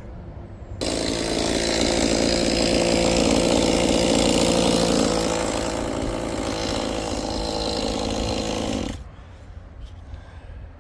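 Chainsaw running at speed and carving into a Western red cedar log. It starts abruptly about a second in, eases slightly in level partway through, and cuts off suddenly near the end.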